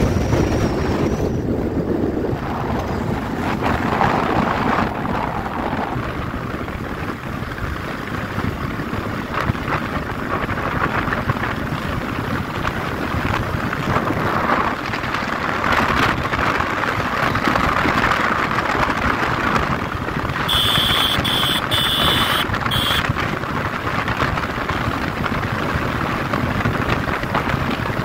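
Steady rush of wind buffeting the microphone on a moving motorcycle, with the bike's running blended into the noise.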